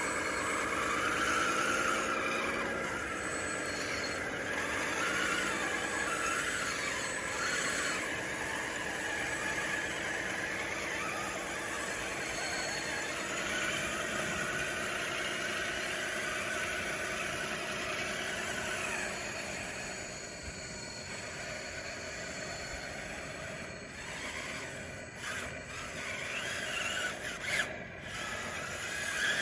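DXR2 radio-controlled bulldozer running and pushing dirt, its drive whining and squealing. The pitch rises and falls as the machine works, and the sound drops a little about two-thirds of the way through.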